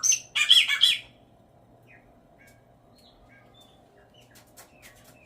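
Chopi blackbird singing: a loud burst of song in the first second, then soft scattered chirps.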